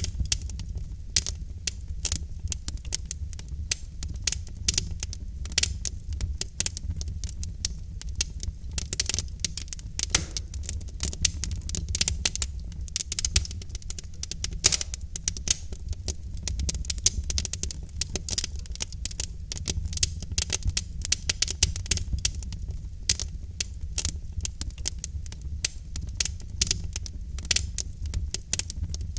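Wood fire crackling in a fireplace: logs burning with dense, irregular pops and snaps over a steady low rumble of the flames.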